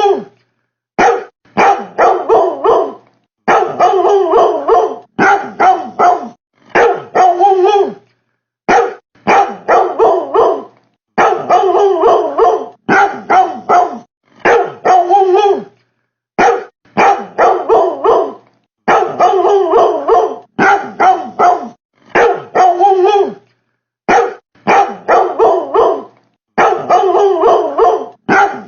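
Dog barking loudly in quick volleys of several sharp barks. Each volley is about a second long and separated by brief dead silences, repeating over and over like a looped recording.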